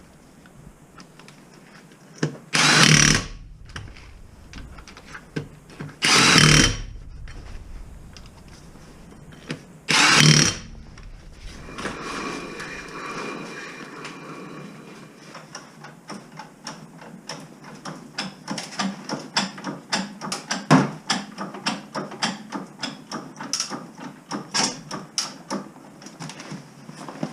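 Power tool, likely a cordless impact wrench, run in three short bursts about four seconds apart, followed by a long run of sharp metallic clicks and clinks of tools being handled.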